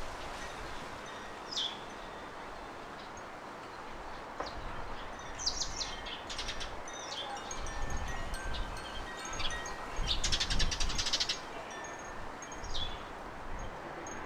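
Garden birdsong over the soft ringing of wind chimes. A few short calls drop in pitch, and a rapid trill comes about ten seconds in. Gusts of wind rumble on the microphone.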